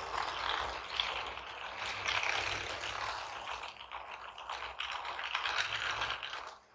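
A train passing at speed, its wheels and coaches rattling and clattering along the track. The sound drops away suddenly near the end.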